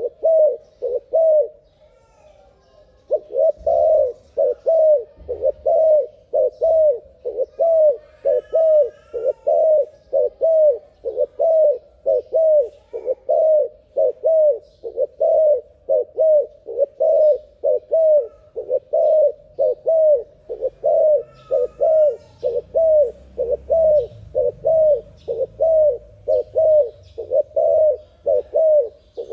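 A terkukur dove cooing in a fast, unbroken run of short, evenly spaced coos, about one and a half a second, pausing briefly near the start. Faint chirps of another bird come in twice.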